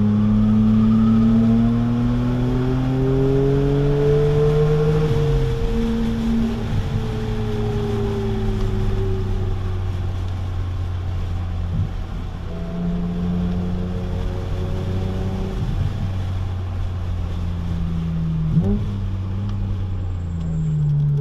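BMW Z4 M's S54 3.2-litre straight-six with a muffler delete, heard from inside the cabin under hard track driving. The engine note climbs under acceleration, drops in pitch about five seconds in, falls away as the car slows, and rises again after a short sharp blip near the end.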